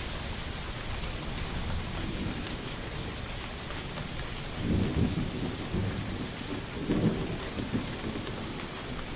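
Steady rain falling, with two low rolls of thunder rumbling up through it, the first about five seconds in and the second about two seconds later.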